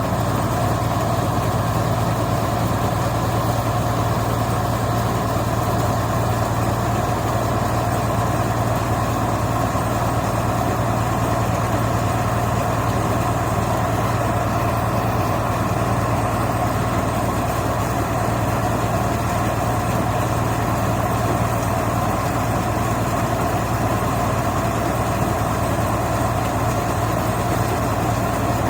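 Heavy machine engine running steadily at constant speed, with an unchanging low hum and no revving.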